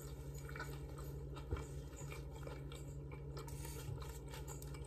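Faint chewing of a chicken sandwich, with small clicks and rustles of handling the bun and a paper napkin, over a steady low hum.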